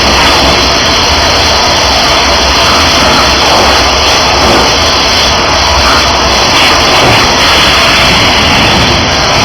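Engine-driven high-pressure washer running steadily: a constant low engine hum under the loud, even hiss of the water jet.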